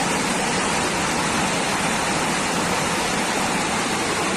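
Fast-flowing floodwater rushing: a steady, dense wash of water noise with no breaks.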